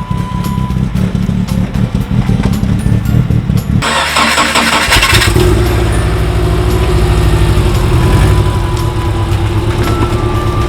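Toyota AE86's four-cylinder engine running as the car is driven to be parked. About four seconds in there is a short burst of hissing noise, then the engine carries on.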